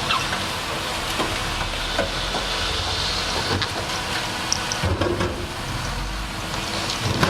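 Bulldozer's diesel engine running steadily under a noisy hiss, with scattered short knocks and clicks.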